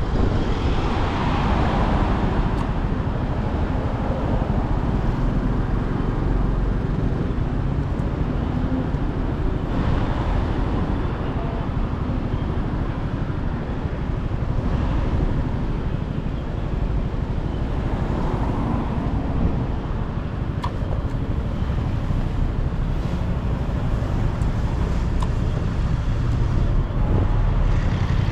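Onboard sound of a motorcycle riding in traffic: a steady run of engine, road and wind noise.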